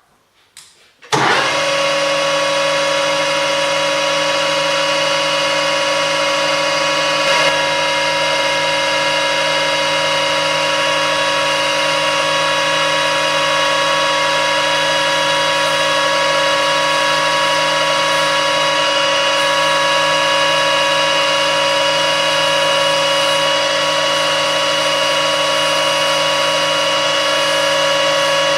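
Metalworking lathe starting up about a second in and running steadily, a whine made of several fixed tones, while parting off a brass workpiece.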